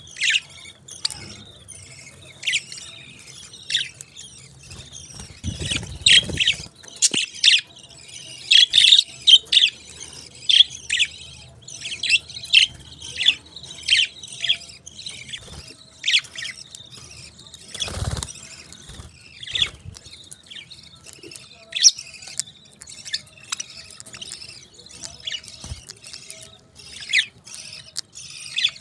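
Pet parakeets chirping: a stream of short, sharp, high calls, many in quick succession, with a low rumble about a fifth of the way through and a single dull knock about two-thirds through.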